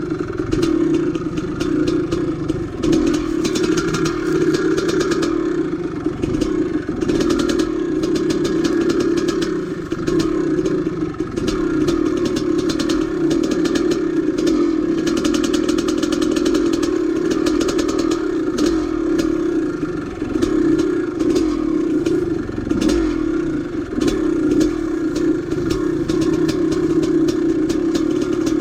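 An old dirt bike's engine running under way on a trail, its note easing and picking up again with the throttle, with frequent clatter and knocks from the bike over rough ground.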